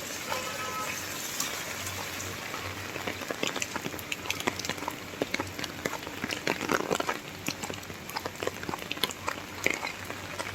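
Rain falling steadily, with many single drops heard as close, sharp ticks that grow more frequent from about three seconds in.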